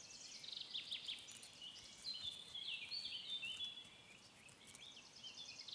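Several small songbirds singing at once, a busy run of short, quick chirping notes overlapping one another.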